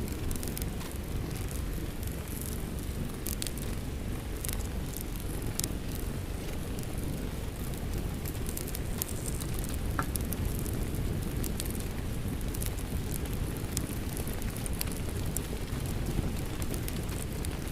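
Wood fire crackling with scattered sharp pops over a steady low rumble of rain.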